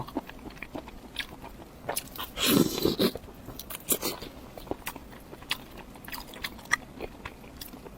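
Close-miked chewing of crunchy beef cartilage: a string of short sharp crunches, with one louder, longer crunching bite about two and a half seconds in.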